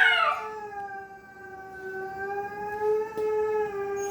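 A long, steady, slightly wavering howl-like tone holds throughout. Over it, a husky's falling howl trails off about half a second in, and a new sharp howl begins right at the end.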